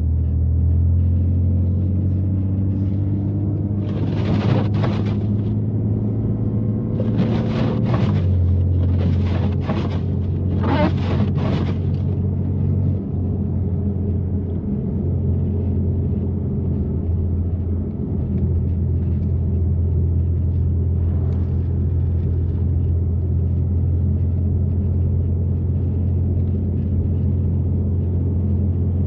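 BMW F80 M3's twin-turbo inline-six, with catless downpipes and an always-open valved exhaust, droning at low steady revs while driving slowly through snow; the note drops a little about eight seconds in. Between about four and twelve seconds in, four short rushing bursts of noise sit over the drone.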